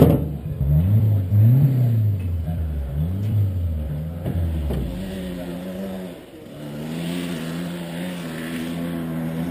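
Honda CRF450R single-cylinder four-stroke dirt bike engine being revved in a series of throttle blips, the pitch rising and falling about four times. Near six seconds it drops away, then settles into a steadier note.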